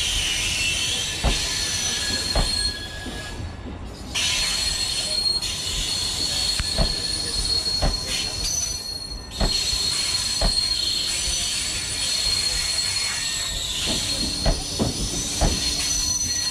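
MEMU electric multiple unit coaches rolling slowly past, their wheels clicking over the rail joints about once a second, with a high, steady squeal above the clicks.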